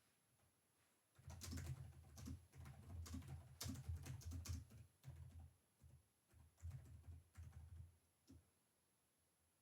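Typing on a computer keyboard: a fast run of key clicks from about a second in, then slower scattered keystrokes, stopping about a second before the end.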